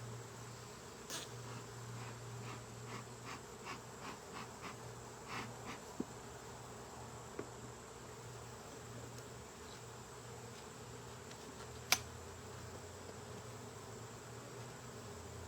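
Honeybees buzzing in a steady hum around an open hive, with a run of light clicks and taps in the first six seconds and one sharp click about twelve seconds in.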